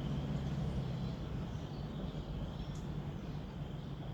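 Steady low hum with an even background hiss; no distinct knocks or tool sounds stand out.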